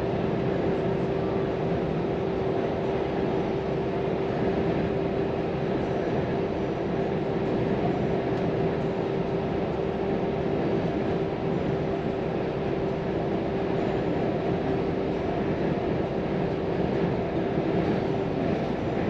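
Volvo FM 420 truck under way at steady speed: engine and road noise heard from inside the cab, with a steady hum that fades out near the end.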